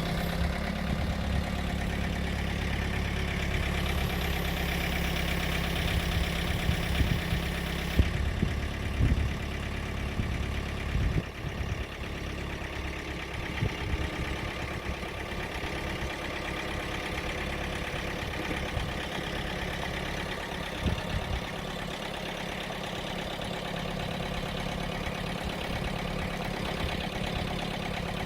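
An engine running steadily at idle, its tone changing about eight seconds in, with a few knocks around nine to eleven seconds in and again near twenty-one seconds.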